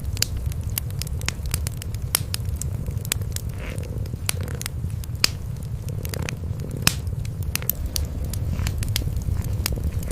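Wood fire in a fireplace crackling, with sharp, irregular pops, over the steady low purring of two cats.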